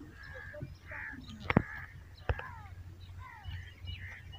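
Birds calling repeatedly in short calls, some sliding downward in pitch, with two sharp clicks about a second apart near the middle.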